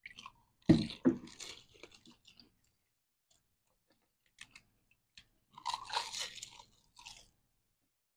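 Crisp, hollow panipuri (golgappa) shells crunching as they are bitten and chewed, with water-filled mouthfuls. The crunching comes in irregular clusters, the loudest about a second in and another around six seconds in.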